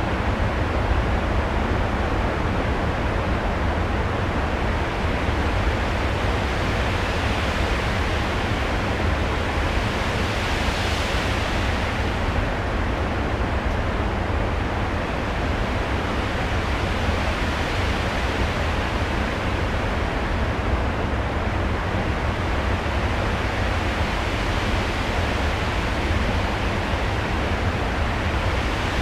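Steady rushing, surf-like noise with a deep rumble underneath, swelling brighter about eleven seconds in and again near the end: a stage show's storm soundscape played over the theatre's sound system.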